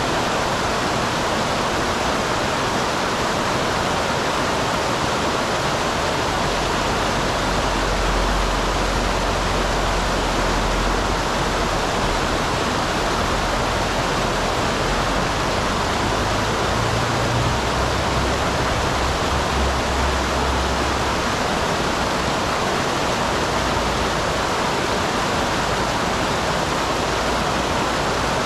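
A small waterfall on a mountain stream: water rushing and splashing steadily. A deeper low rumble joins it for a stretch in the middle.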